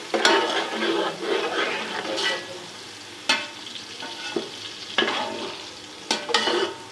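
Ginger-garlic paste and browned onions sizzling in hot ghee in a large cooking pot while a spoon stirs and scrapes, knocking sharply against the pot several times.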